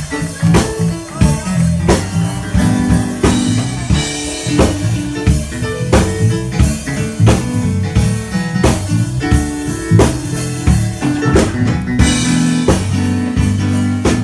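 A band playing an instrumental groove: a drum kit striking on a steady beat over a busy bass line, with guitar.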